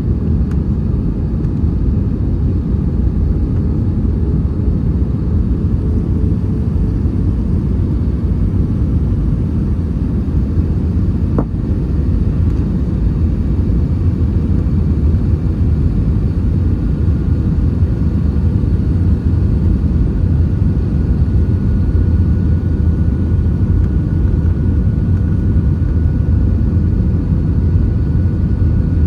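Airbus A320 cabin noise heard from a window seat: a loud, steady low rumble of engines and airflow, with a faint high steady tone joining about halfway through.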